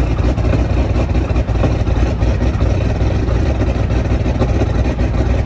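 12-valve Cummins inline-six diesel idling steadily, just started in the cold; it is running rough, which the owner puts down to it needing to be cleaned out.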